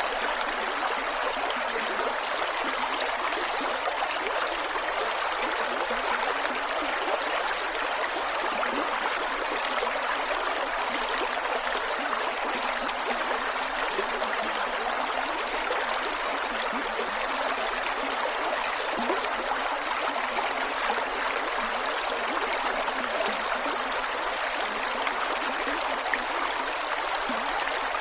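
A creek's water flowing over rocks, steady and continuous with small gurgles.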